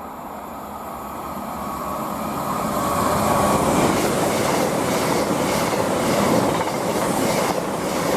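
A 10-car CrossCountry Voyager diesel train, two units coupled, passing through the station at speed. Its noise builds over the first few seconds as it arrives, then holds at a loud, steady rush, with the wheels clattering rhythmically about twice a second.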